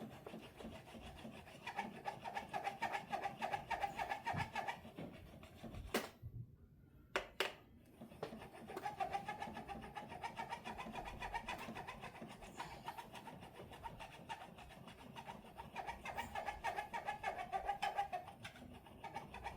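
Fret file rasping across a guitar's frets in quick back-and-forth strokes, filing down frets that are not stainless steel. The filing comes in two runs, a short one and then a long one, with a short break and a couple of clicks between them.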